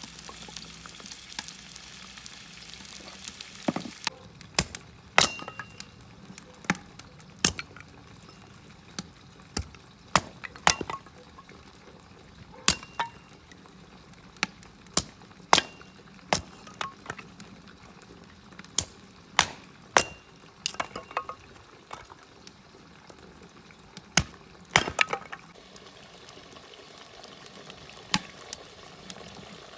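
Oil sizzling for the first few seconds, then a long series of sharp metallic clinks, irregular and a second or so apart, some ringing briefly: metal utensils striking metal cookware.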